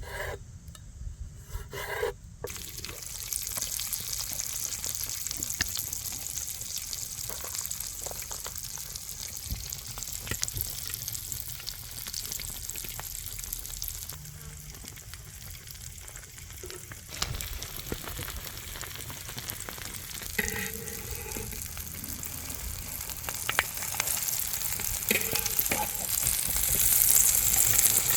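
Food frying in a pan: a steady sizzle that starts a couple of seconds in and grows louder near the end, with occasional light clicks.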